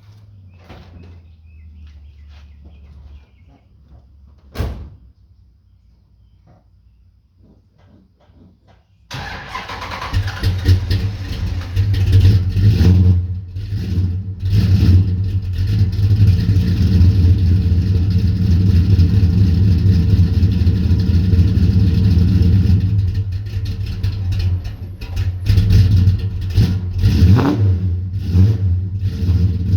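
A 1970 Dodge Coronet's 440 big-block V8, fitted with headers, a full 3-inch exhaust and a Thumpr cam, is started cold. After a single sharp knock, the engine fires suddenly about nine seconds in and runs loud and uneven, with the exhaust note swelling a few times.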